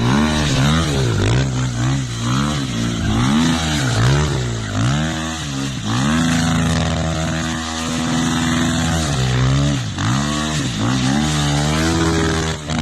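Motocross dirt bike engine revving hard, its pitch climbing and dropping about once a second. Midway the pitch holds steady for a few seconds, then it rises and falls again.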